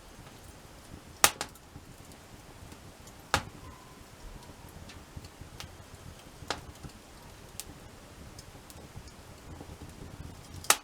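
Wood campfire burning, with a few sharp crackling pops every second or two over a faint steady hiss; the loudest pops come about a second in and at the very end.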